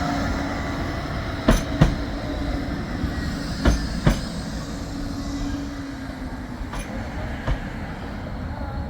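Bombardier Flexity 2 tram running on its track, a steady rumble with a low hum, and its wheels clicking over rail joints in pairs, twice in the first half and more lightly later.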